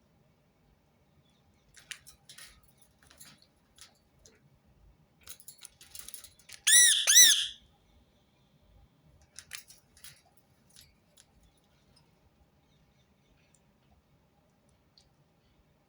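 Rose-ringed parakeet giving a loud two-part screech about seven seconds in, among faint scratchy chatter and clicks.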